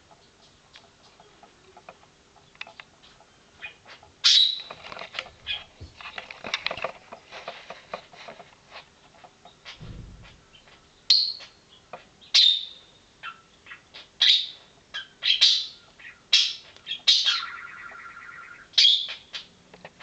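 A bird chirping: short, sharp high calls spaced a second or two apart, coming more often in the second half, with a rapid trill about three quarters of the way through.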